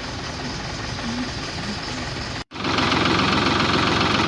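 Ford 3000 tractor's three-cylinder engine idling steadily just after a cold start, left running to warm up. About two and a half seconds in the sound cuts out for an instant and comes back louder.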